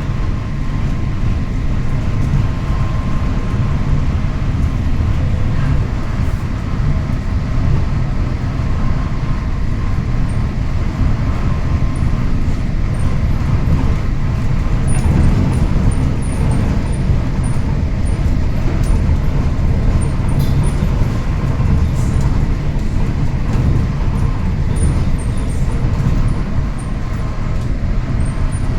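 Monorail train running, a steady low rumble with a faint constant whine.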